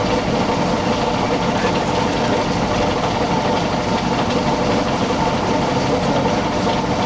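A running engine gives a steady, unchanging drone with a constant hum, holding one speed throughout.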